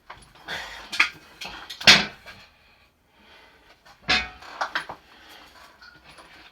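Handling noises: a few short knocks and clunks with rustling in between, the loudest about two seconds in and again about four seconds in.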